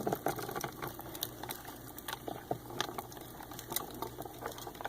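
Light, irregular clicks and taps, about one or two a second, as hermit crabs' shells knock against each other and the tank decor while they move about.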